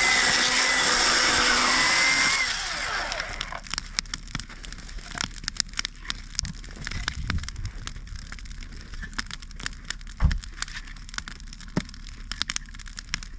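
Campfire crackling, with scattered sharp pops of burning wood and one low thump about ten seconds in. Before that, a loud rushing noise starts suddenly and fades out over the first three seconds or so.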